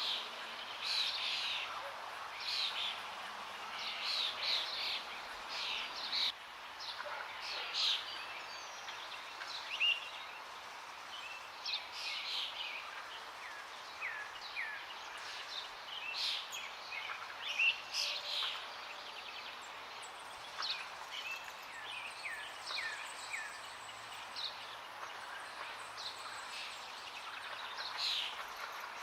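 Several songbirds chirping and whistling over a steady rush of flowing water; from about two-thirds of the way through, a run of short falling whistles repeats.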